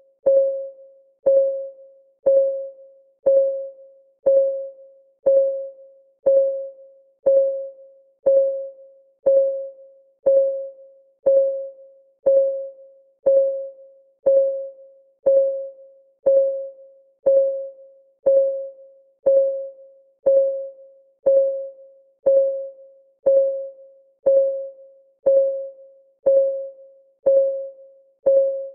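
Countdown timer's clock-ticking sound effect, one tick a second at an even pace. Each tick is a short click with a clear mid-pitched tone that rings and fades away before the next.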